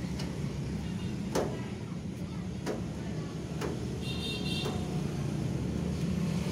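Scattered light clicks and taps of screws being undone from a clothes dryer's rear metal cover, about five over a few seconds, over a steady low background rumble. A brief high-pitched whine sounds about four seconds in.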